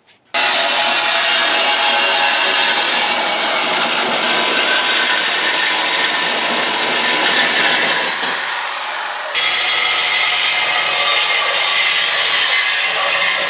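Reciprocating saw (Sawzall) cutting through a steel exhaust pipe, running hard and continuously, easing off briefly about eight seconds in before cutting again.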